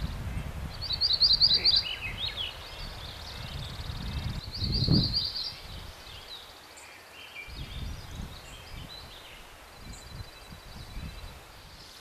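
Songbirds singing outdoors: two loud, fast trilled phrases, about a second in and again near the middle, among fainter scattered chirps. A low, gusting rumble of wind on the microphone lies underneath and eases after about halfway.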